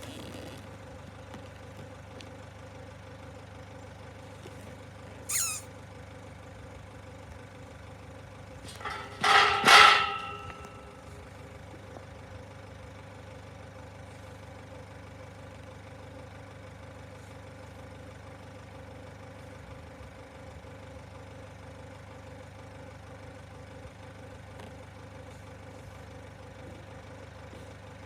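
A bird calling: one brief downward-sliding call about five seconds in, then a loud, harsh double call around nine to ten seconds in. Under it runs a steady low engine hum, like an idling vehicle.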